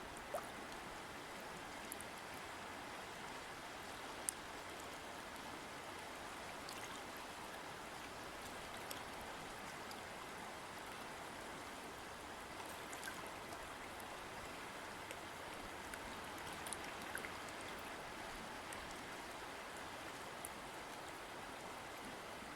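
A river or stream flowing steadily over rocks, a constant rushing with occasional small splashes and droplet sounds.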